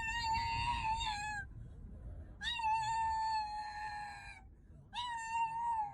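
A cat giving three long, drawn-out meows at a fairly steady pitch, each lasting one to two seconds, with short pauses between them.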